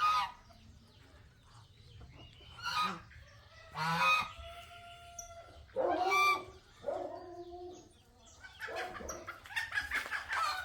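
Farm poultry calling: several loud calls, one every second or two, then a busier run of overlapping calls near the end.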